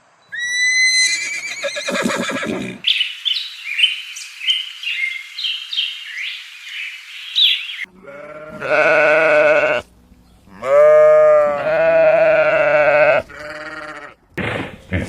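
A run of farm animal calls. First a short pitched call, then a few seconds of quick high chirping. Near the end come two long bleats with a wavering pitch, typical of a goat.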